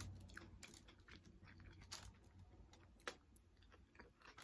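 Faint close-miked chewing of a mouthful of cheesy beef nachos: soft scattered clicks and crackles.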